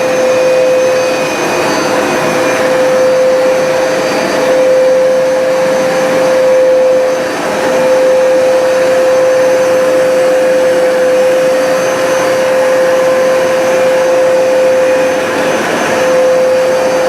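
Hoover SmartWash automatic carpet cleaner running, its suction motor giving a loud, steady whine as it washes and dries the carpet, spraying solution and sucking the water back up. There is a brief dip about seven seconds in.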